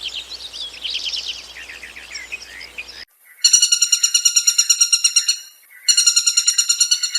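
Small birds chirping and twittering in quick bursts for about three seconds. After a short gap come two long, rapid, high-pitched trills of about two seconds each, separated by a brief pause.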